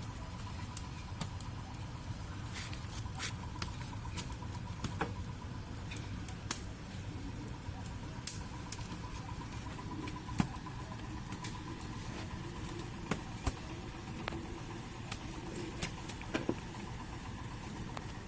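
Wood fire crackling, with irregular sharp pops and clicks over a steady low rumble.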